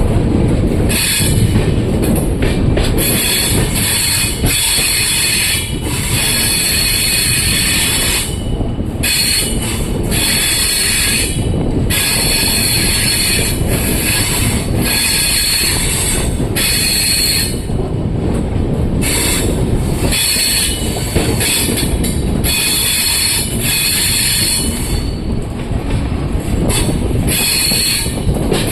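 Train wheels squealing against the rails as a train runs through a curve, the shrill squeal coming and going in waves over a steady rumble of the wheels on the track.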